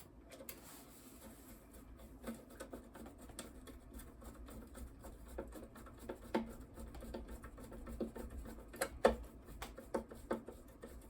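Quiet handling of small metal parts and hand tools on a workbench: scattered light clicks and scraping, with a few sharper taps around the middle and about nine seconds in.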